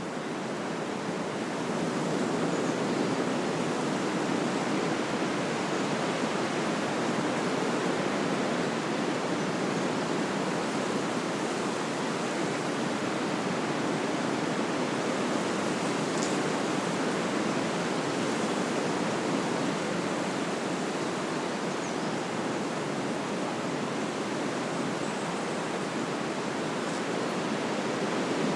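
Wind blowing through trees: a steady rushing of leaves and branches that swells a little over the first couple of seconds.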